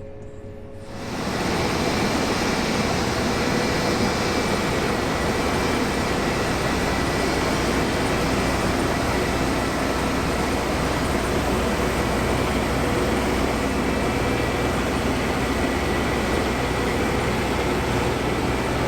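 New Holland CX 8.70 combine harvester running, heard from inside the cab as a steady, even drone with a low hum. About a second in it jumps abruptly louder and then holds level.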